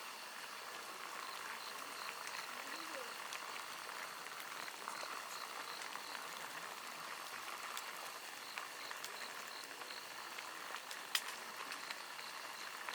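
Wood fire burning with a steady hiss and a few sharp crackling pops, the clearest about eleven seconds in.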